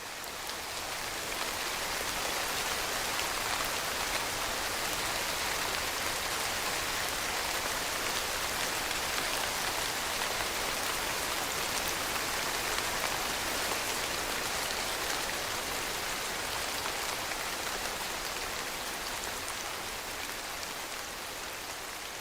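Steady, even sound of heavy rain, rising over the first couple of seconds and then holding level.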